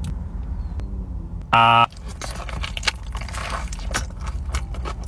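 Small crackles and clicks from handling and eating fast food over a steady low rumble, with one short voiced sound about a second and a half in.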